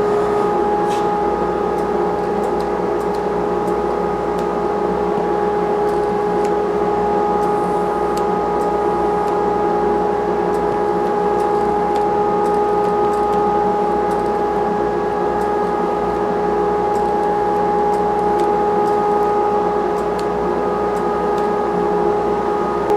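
Powder coating equipment running: a steady drone held at one constant pitch over a background hiss, with a few faint ticks.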